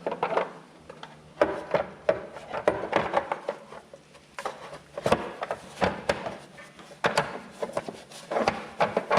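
A cover panel being fitted back onto a Poulan Pro PR271 snow thrower by hand: irregular knocks, clatters and rubbing as it is pushed and worked into place.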